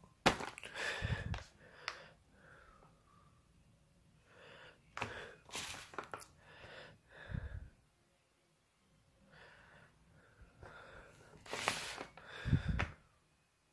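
Intermittent rustling and knocking as a box of fireworks is unpacked by hand, in short bursts with pauses between; the loudest come near the end.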